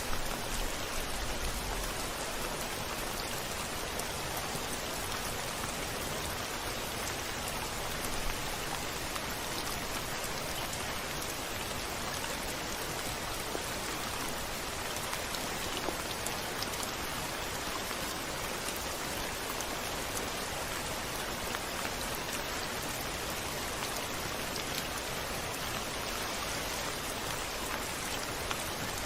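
Steady heavy rain falling on a window, an even hiss with scattered drops ticking through it.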